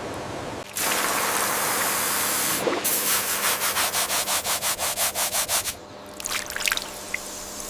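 Abrasive scrubbing on a corroded bronze dagger. It starts as a steady rasp for about two seconds, turns into quick back-and-forth strokes at about seven a second, and ends in lighter, scratchy rubbing.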